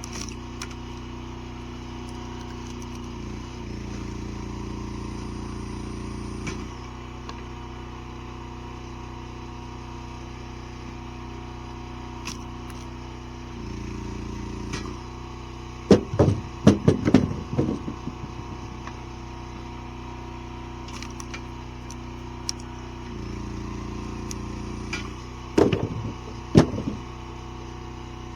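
Firewood processor's engine running steadily, its note swelling for a second or two at a time under load, with two clusters of loud cracks and thuds as wood splits and drops, about halfway through and again near the end.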